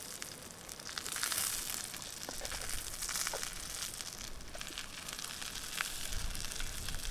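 Food sizzling in a pan on a camp stove: a steady hiss that grows louder about a second in, with scattered small clicks and scrapes.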